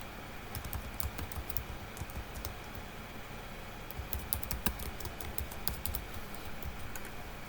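Typing on a computer keyboard: irregular key clicks in quick clusters, starting about half a second in and thinning out near the end.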